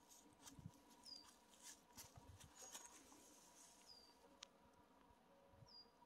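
Faint, thin high-pitched calls of a small songbird, short chirps that dip slightly in pitch, repeated every second or two, over a near-silent woodland background. A few soft crackles in the first half.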